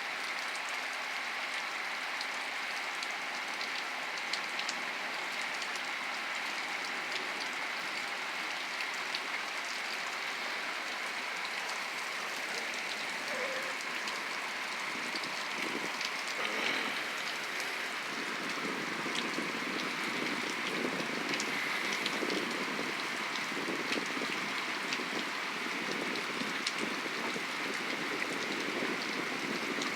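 Steady heavy rain falling on surfaces, with scattered drop ticks. About halfway through, a low rumble of distant thunder joins in under the rain.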